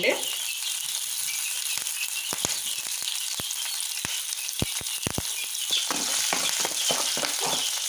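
Chopped green chillies sizzling in hot oil with mustard seeds and roasted dal in a pan, a steady hiss of frying, with a spatula clicking against the pan several times as it is stirred.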